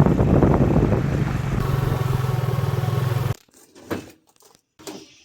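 An engine running steadily, cut off suddenly a little over three seconds in, followed by two faint short knocks.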